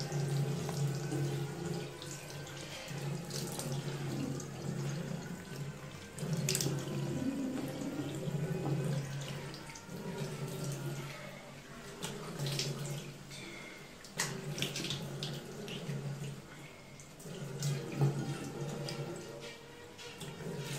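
A tap running into a ceramic washbasin while hands wash and splash water to the face, with scattered sharp splashes over the steady flow.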